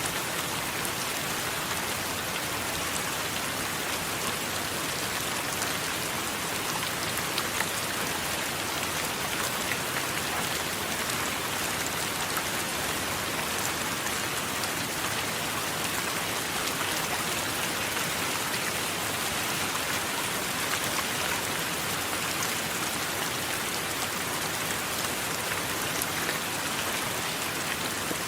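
Steady heavy rain falling on surfaces, an even hiss dotted with many small drop ticks.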